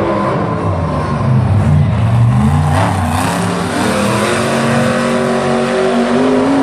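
Monster truck engines at full throttle during a racing pass. The engine note climbs in the first two seconds, surges about three seconds in, then holds high and steady.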